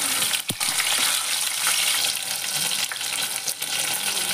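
Finely chopped garlic sizzling and crackling in hot oil in a pan as it is stirred with a spoon, with a single knock about half a second in.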